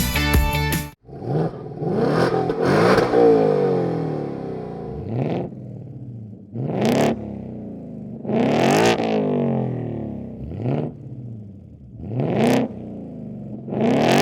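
Ford Mustang GT's 5.0 Coyote V8 revved through a muffler-delete axle-back exhaust with straight pipes: about seven or eight quick throttle blips, each rising sharply in pitch and falling back toward idle. Music plays briefly before the revving starts about a second in.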